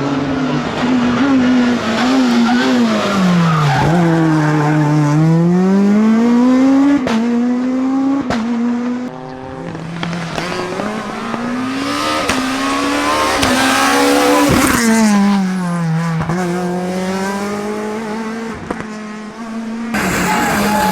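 Rally car engine at full effort on a stage, its pitch climbing hard and then dropping several times as it shifts gear and brakes into corners, with a few sharp cracks along the way.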